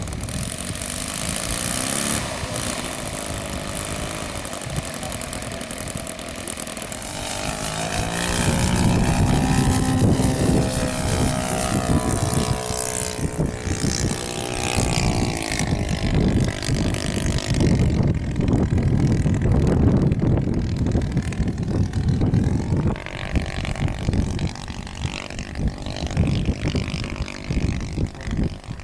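Radio-controlled model airplane's engine and propeller running in flight. The engine note rises and falls in pitch and gets louder as the plane passes about a third of the way in. Later the high part of the sound fades and an uneven low rumble is left.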